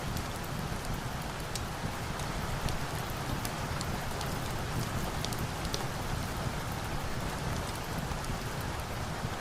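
Steady rain falling, an even hiss with a low rumble beneath, sprinkled with many sharp scattered ticks.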